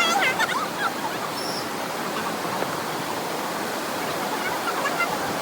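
Steady rushing of a waterfall and stream, with a few brief high chirps in the first second.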